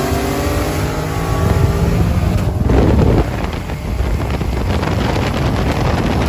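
Car engine running hard, its note drifting slowly lower for the first couple of seconds, then a short loud burst about halfway through, followed by rougher engine and wind noise over the microphone.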